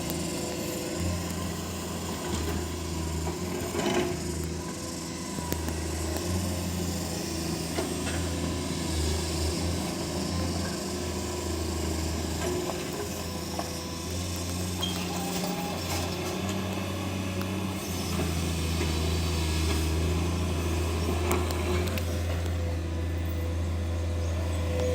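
Excavator's diesel engine running steadily, its drone swelling and easing with the working load, with a few scattered knocks of the bucket against rock.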